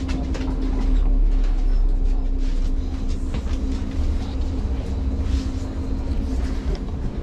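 Passenger train running on the rails, heard from inside the carriage: a steady low rumble with a constant electric hum and scattered clicks and rattles from the wheels and car body.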